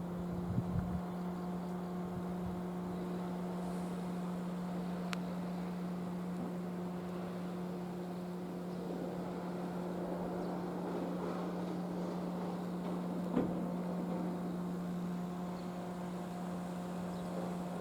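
A steady low machine hum, one tone with several overtones, that winds down in pitch right at the end. A faint click about five seconds in and a short knock about thirteen seconds in.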